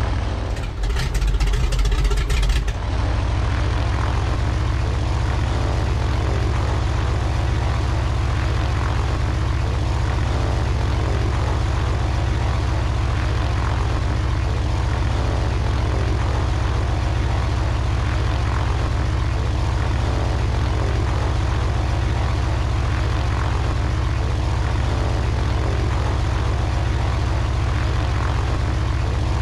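An engine running with a steady, loud, low drone, under a louder rushing noise for the first couple of seconds.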